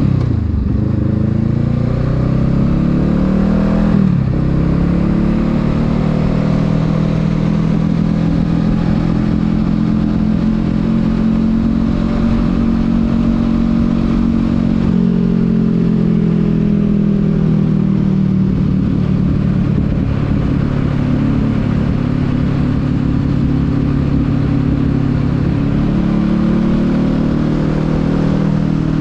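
Honda Rebel 500 parallel-twin engine pulling away and revving up, with a gear change about four seconds in where the pitch drops sharply, then cruising at fairly steady revs that rise and fall gently.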